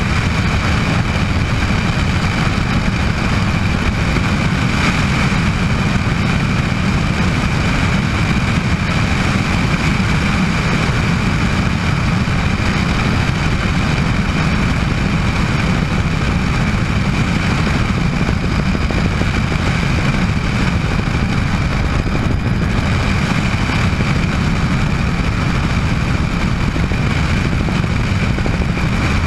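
Bell 206 JetRanger helicopter heard from on board in flight: its turbine engine and rotor run steadily, a deep, even rumble with a constant high whine on top.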